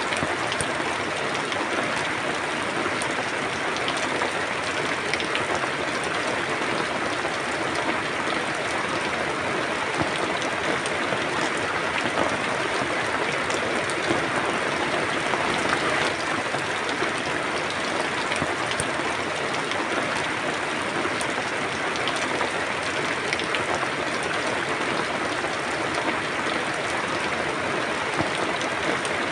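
Steady rain falling, a dense even hiss with the close patter of individual drops hitting a surface.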